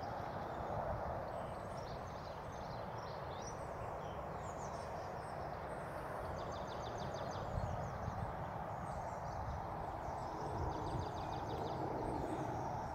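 Small songbirds singing and chirping, with a rapid trill that comes back twice, over a steady outdoor background hiss and low rumble.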